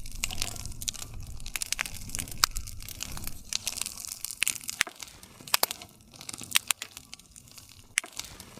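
Wood campfire crackling: irregular sharp snaps and pops of burning wood over the soft low rush of the flames, with a few louder pops standing out.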